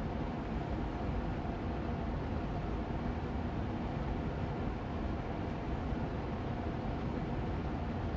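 Austin Air Allergy Machine air purifier fan running steadily on medium speed: an even rush of air with a low hum and a faint steady tone.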